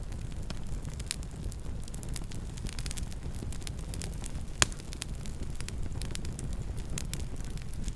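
Campfire burning with a steady low rumble and scattered crackles, one louder pop about halfway through.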